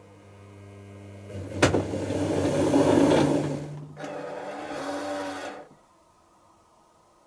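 Dyson Contrarotator washing machine running: a motor hum builds, a sharp clunk comes about one and a half seconds in, then a loud whirring, churning run with a brief dip near the middle, which cuts off suddenly about six seconds in.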